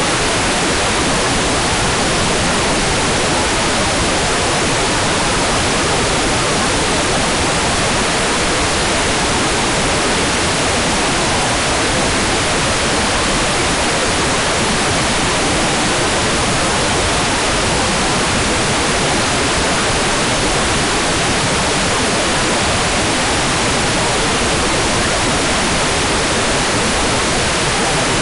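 Hairdryer blowing continuously, a loud, even rush of air with no changes, played as white noise for sleep.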